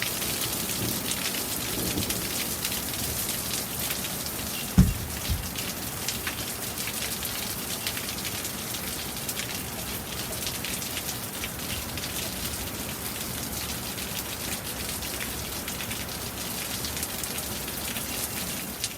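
Steady rain falling, with the ticking of many individual drops striking surfaces close by. Two brief low thumps a little apart, about five seconds in.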